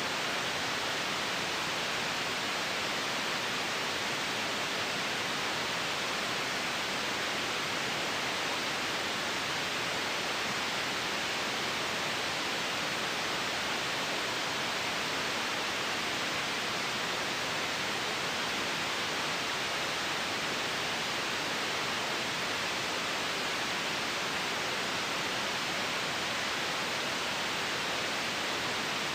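Generated white noise: a steady, even hiss that never changes in level or character.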